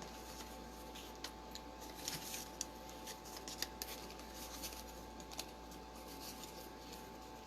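Faint paper and cardstock handling noises: scattered small clicks and light taps as layers are handled and pressed together, over a low steady hum.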